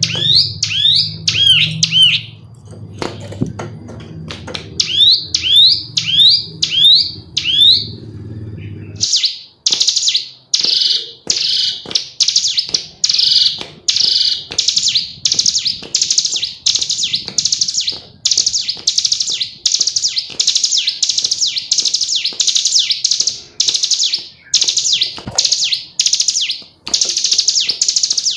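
Female ciblek gunung (a prinia) calling: short groups of quick rising chirps, then from about a third of the way in a long run of harsh, buzzy notes repeated about twice a second. A low hum sits under the first third and stops.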